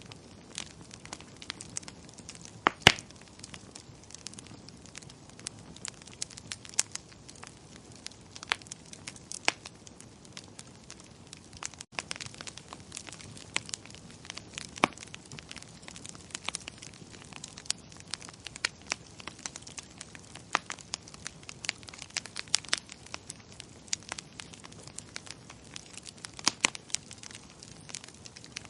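Wood fire in a fireplace crackling: irregular sharp pops and snaps over a soft, steady hiss, with the loudest pop about three seconds in.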